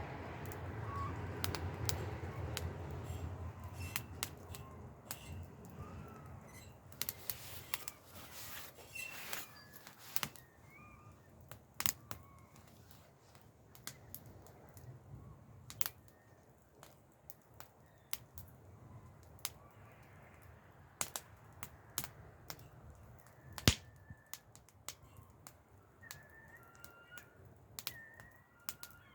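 Wood campfire crackling, with irregular sharp snaps and pops, one loud snap about two thirds of the way through. A low rumble fades away over the first several seconds, and faint bird chirps come in near the end.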